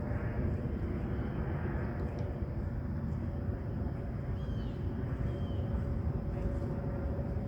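Steady low outdoor rumble with a faint steady hum, and two faint high chirps about halfway through.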